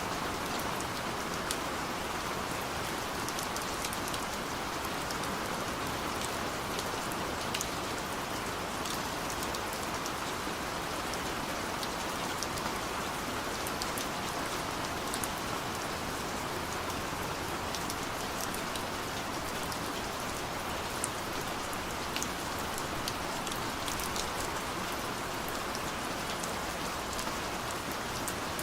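Heavy rain pouring steadily, with many sharp drop hits ticking through the steady rush.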